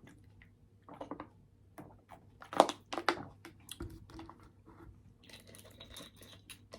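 Close-up eating sounds: irregular chewing and crunching of food, loudest about two and a half seconds in, with finer crackling sounds near the end.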